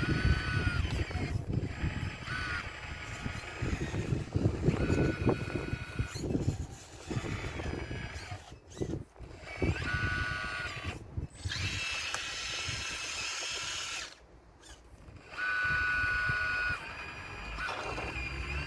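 Hydraulic pump of a radio-controlled scale Caterpillar excavator whining, its pitch stepping up and down as the controls move and cutting out several times. In the first half it comes with a rough clatter and scraping of stones being broken out of a wall.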